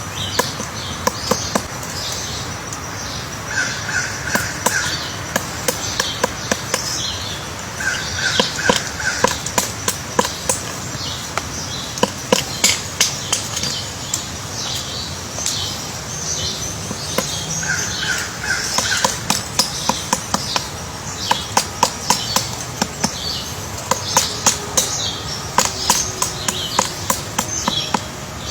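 A woodpecker pecking into wood to dig out its nest hole, in quick irregular taps, amid repeated high-pitched chattering bird calls. Three times, a short run of about four lower call notes.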